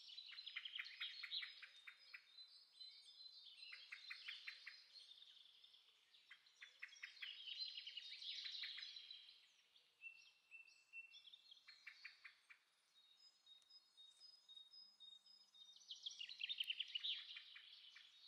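A bird singing faintly: phrases of rapid repeated notes, each lasting a second or two, come about every three seconds, with fainter chirps between them.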